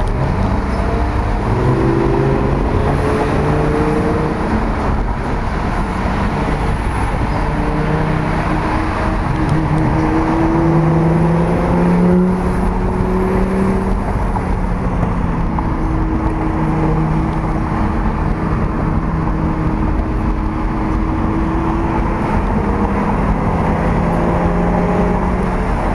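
Several supercar engines running together, their pitches rising and falling slowly as they are revved lightly and driven at low speed, over a steady rumble of traffic.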